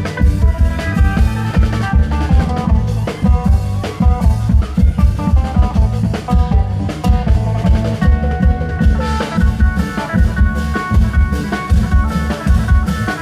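Thai klong yao long-drum troupe playing: fast, dense drumming with heavy low beats, and a melody running over the top.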